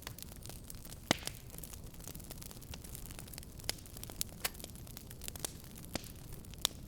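Wood fire crackling in a fireplace: irregular sharp pops and snaps over a steady low rumble of burning, with a louder pop about a second in and another near the end.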